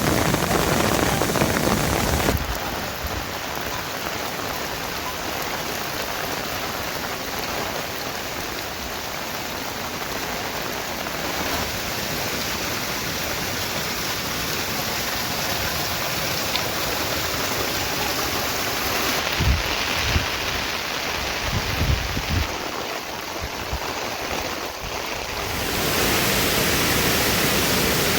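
Steady rain falling, a continuous even hiss that drops in level about two seconds in and rises again near the end, with a few low bumps a little past the middle.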